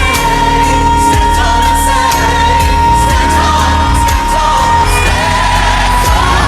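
Female pop vocalist singing live over a band, holding one long high note for about five seconds before moving on, with drums and band accompaniment underneath.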